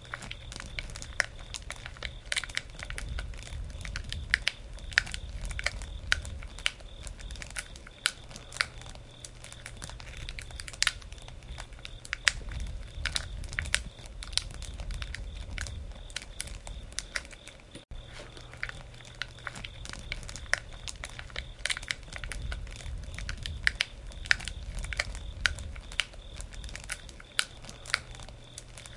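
Wood campfire burning: irregular sharp crackles and pops of the burning wood over a low rumble that swells and fades.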